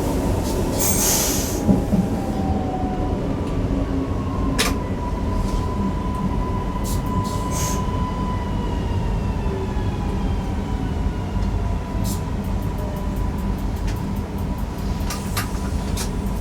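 Newag Impuls EN63 electric multiple unit running, heard from the driver's cab: a steady rumble with a high electric whine whose pitch slowly falls as the train slows, and scattered sharp clicks of the wheels over rail joints.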